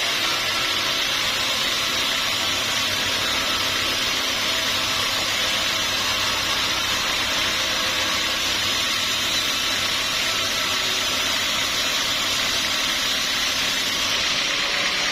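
Sawmill machinery running steadily: a continuous even noise with a faint low hum, without breaks or knocks.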